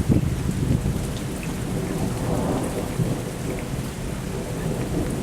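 Thunderstorm: thunder rumbling low and continuously over steady rain, with a brief louder peak right at the start.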